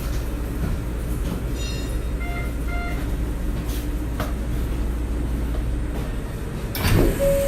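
Inside a Shonan Monorail car: steady low rumble, with two short beeps a little over two seconds in. Near the end there is a loud clunk, then a two-note chime starts.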